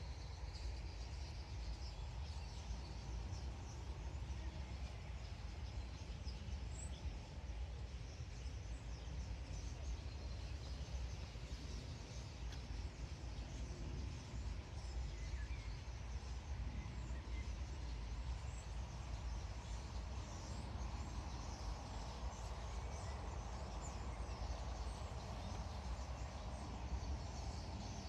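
A flock of common starlings chattering, a dense scatter of many small high chirps and whistles, over a steady low rumble.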